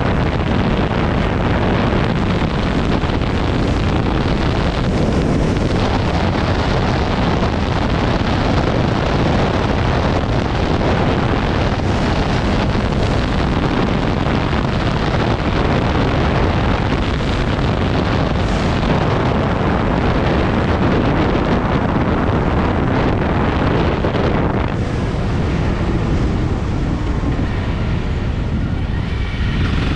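Wind buffeting the microphone over the Honda CRF250's single-cylinder four-stroke engine running while riding at speed. About 25 seconds in, the wind eases and the engine's pitched note comes through more clearly.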